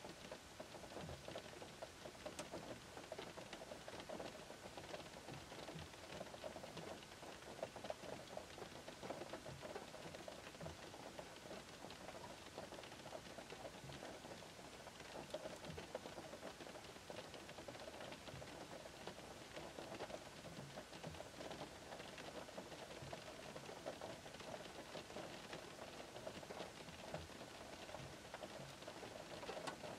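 Gentle rain pattering on a parked car's roof and windscreen, heard from inside the cabin: a steady patter of many small drop taps.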